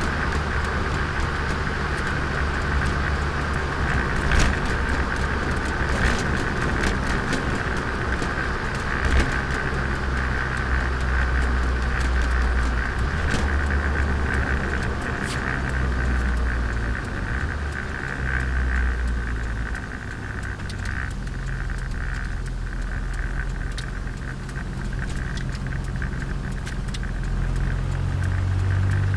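Turbocharged Nissan Micra driving on a road, recorded on board: a steady engine drone with road noise and scattered sharp knocks and rattles. The engine note shifts in pitch a few times.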